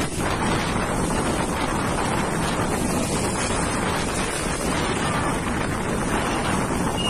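Strong storm wind buffeting the microphone: a dense, steady rushing noise with no breaks.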